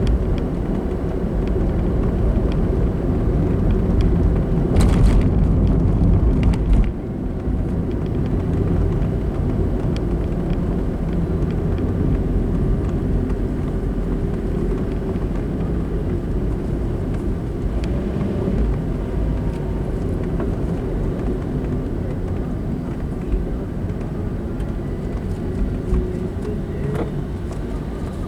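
Car on the move: a steady low rumble of road and engine noise, with a few short clicks about five to seven seconds in and the noise easing slightly just after.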